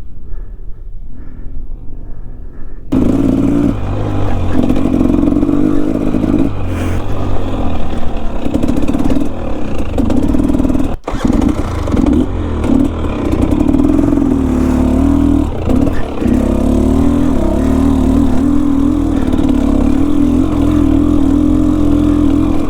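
Enduro dirt bike engine running on a trail ride, its pitch rising and falling with the throttle. It is muffled for the first three seconds, and there is a brief break about eleven seconds in.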